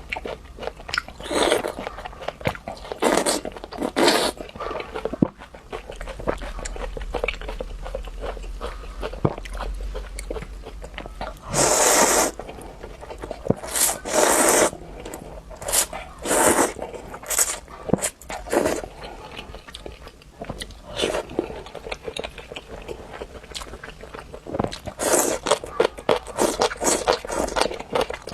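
Close-miked eating: a person biting and chewing food, with irregular crunching bites and a few louder crunches about halfway through.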